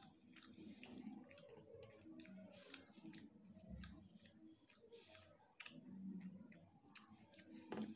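Faint close-up eating sounds: chewing with scattered wet mouth clicks as fried rice and boiled egg are eaten by hand.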